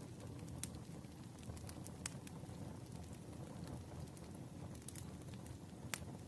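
Wood campfire burning: a steady low rumble of flames broken by sharp crackles and pops from the firewood, the loudest about half a second in, about two seconds in and near the end.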